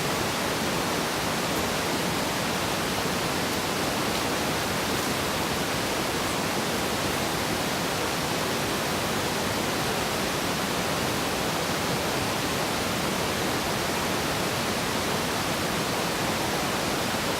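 Steady rushing noise, even and unbroken, with no distinct clicks or tones.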